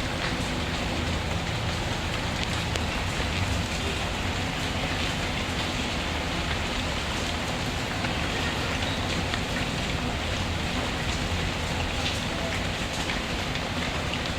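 Steady rain falling, an even wash of noise dotted with fine ticks of drops.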